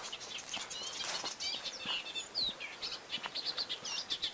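Several small birds chirping and singing together in short, quick notes, with a faint steady hiss underneath.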